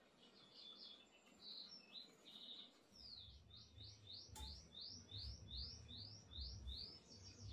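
A small bird chirping faintly: a few short, high chirps, then from about three seconds in a run of about ten quick sweeping notes, roughly three a second. A faint low rumble sits under the second half.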